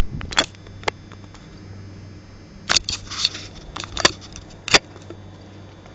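Subaru WRX's turbocharged flat-four idling low and steady through a Magnaflow muffler. A string of sharp clicks and knocks, the loudest about three and five seconds in, sits on top of the hum.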